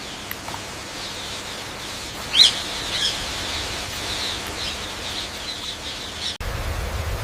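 Parrot calling: one loud, sharp call about two and a half seconds in, followed by a run of shorter chirps. Near the end the sound cuts abruptly to a steady low rushing noise.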